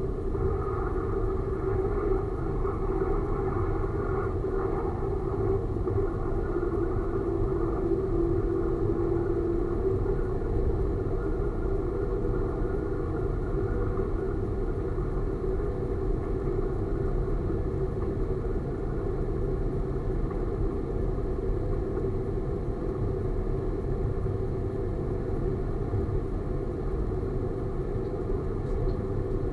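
Diesel railcar running steadily along the track, heard from the cab: an even rumble with a held hum, and a higher tone that fades away about ten seconds in.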